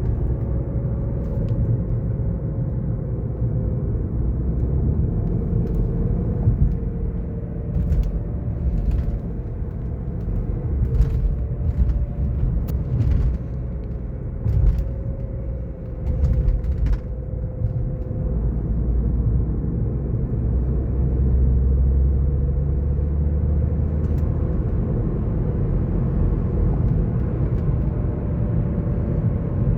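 BMW F10 530d xDrive on the move: low drivetrain and road rumble with a thin whine that wavers slightly in pitch, and a few sharp ticks in the middle. The owner suspects a failing front differential.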